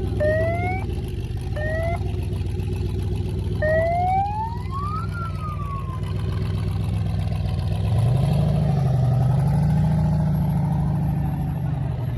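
Truck engine revving in short bursts, its whine climbing in pitch and cutting off sharply, over a steady engine rumble. The last rev climbs, then falls away. After that a lower engine note wavers up and down.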